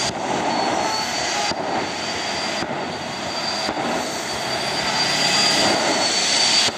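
Jet turbine engine running: a steady roar with a thin high whine over it, broken by a few brief dropouts.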